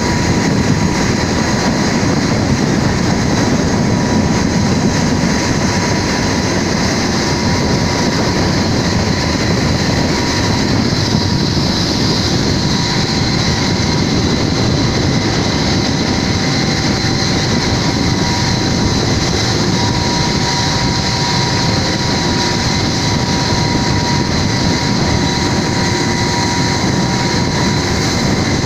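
Strong wind and a rough, swelling sea making a loud, steady roar, with a faint steady whine underneath.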